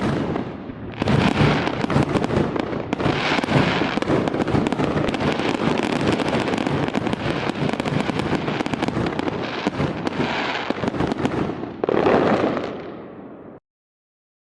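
Fireworks display: a dense, near-continuous barrage of aerial shell bursts and crackle. It swells about a second in and again near the end, then stops abruptly.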